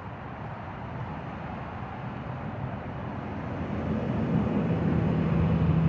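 Steady roar of highway traffic. It grows louder near the end as a vehicle's low engine hum comes in.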